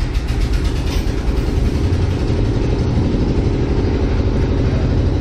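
Steady low rumble of a running vehicle, a dense engine-like drone.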